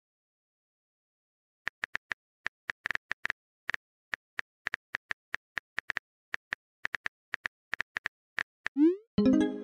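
Smartphone keyboard typing clicks: short taps at about four a second with uneven gaps, starting a couple of seconds in. Near the end a quick rising swoosh and a chiming message tone.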